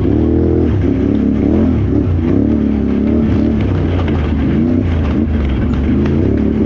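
Can-Am Renegade XXC 1000R ATV's V-twin engine being ridden hard, its revs rising and falling every second or so with the throttle.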